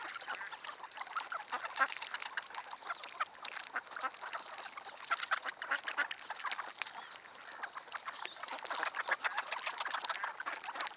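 A large flock of ducks calling constantly, many quacks and chatter overlapping into a dense din, easing a little midway and building again near the end, with a couple of high gliding whistles in the middle.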